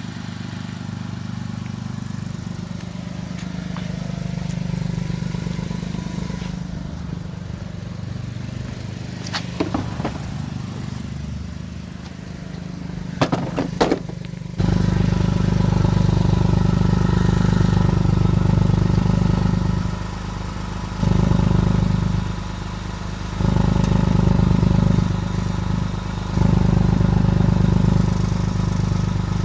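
The exhaust of a 2006 Lexus GS300's V6, running as a loud low drone through a bad exhaust leak. A few sharp clicks come in the first half. About halfway through it jumps louder, then swells and drops back several times.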